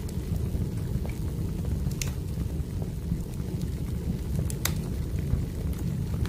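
Wood fire burning, with a steady low rumble and scattered sharp crackles; the two loudest pops come about two seconds and nearly five seconds in.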